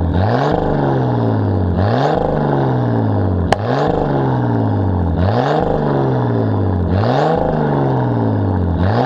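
Nissan Skyline R32's RB20DET turbocharged straight-six revved in repeated blips about every two seconds, each rising quickly in pitch and falling back more slowly. There is a single sharp crack about three and a half seconds in.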